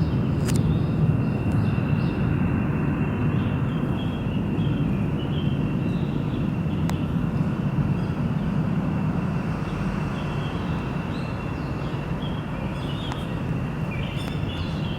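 Four-engine jet of a Boeing E-3 Sentry AWACS aircraft after takeoff: a steady, deep jet rumble that slowly fades toward the end as the plane climbs away.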